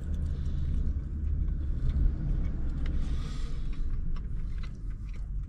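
A man biting into and chewing a piece of fried chicken, the chewing faint, over a steady low rumble that is the loudest sound throughout and eases slightly near the end.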